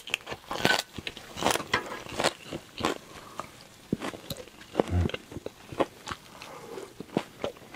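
Close-miked chewing of a mouthful of fresh leafy salad greens: irregular crisp crunches and wet mouth smacks.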